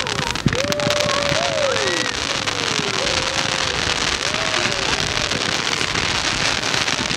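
Ground-level firework fountains crackling and fizzing continuously, a dense rain-like crackle of many small pops, with one sharp bang about half a second in.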